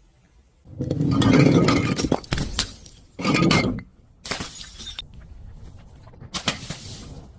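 Glass breaking: several loud crashes of shattering glass, the first and longest about a second in and others spaced a second or two apart, with sharp clinks of shards in between.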